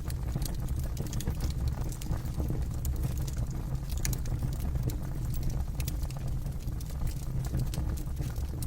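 Campfire burning, the wood crackling with many irregular sharp pops over a steady low rumble.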